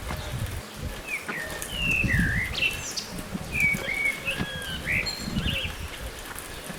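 A songbird singing a series of short whistled notes that slide up and down, lasting about four seconds, over an uneven low rumble.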